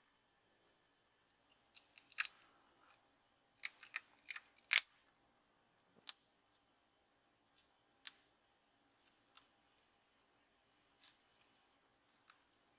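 Small hand tools working on small model parts: about a dozen irregular, sharp little clicks and snips, close together in clusters, the loudest about five seconds in.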